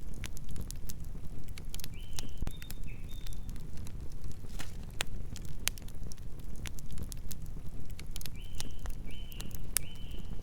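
Wood fire burning: irregular sharp crackles and pops of the logs over a steady low rumble of flames. A few short high chirps come about two seconds in and again near the end.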